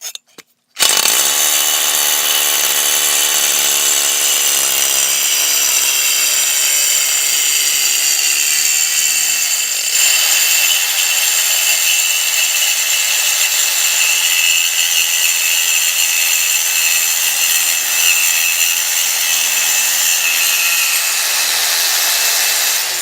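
Power saw cutting through a metal exhaust pipe. It starts about a second in, runs at a steady high pitch, shifts in tone about ten seconds in, and cuts off at the end.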